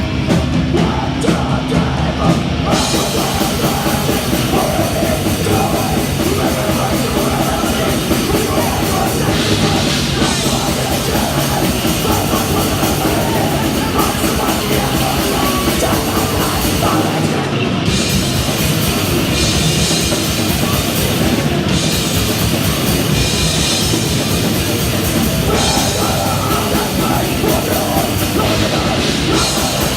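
A death metal band playing loud live: heavily distorted electric guitars and a drum kit in a dense, unbroken wall of sound, with the cymbal wash coming and going between sections.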